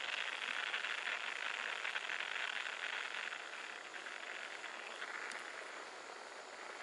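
Steady night chorus of small calling animals, a dense high-pitched trill that eases slightly about four seconds in.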